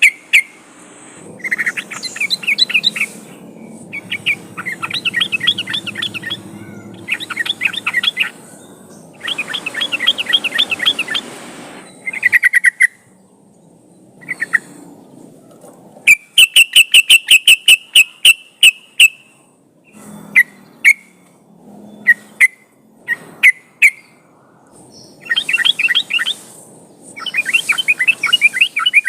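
Yellow-vented bulbuls (trucukan) singing: repeated one-to-two-second phrases of rapid, bubbling chattering notes, broken by short pauses and single sharp call notes.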